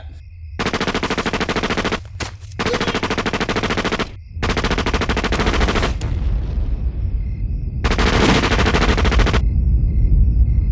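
Four bursts of rapid, evenly repeated rattling, each about a second and a half long, over a low rumble that grows stronger in the second half.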